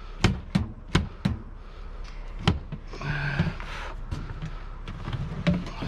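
Knocks and clunks of a bulky salvaged item being shoved into a vehicle: several in quick succession, a louder knock about two and a half seconds in, and a brief squeaky scrape just after.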